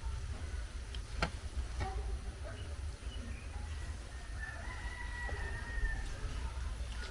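A rooster crowing one long call about four seconds in, over a steady low rumble, with a few sharp clicks.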